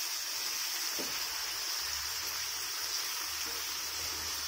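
Potato and pointed gourd pieces sizzling in hot mustard oil in a kadai as they are stirred with a spatula: a steady hiss.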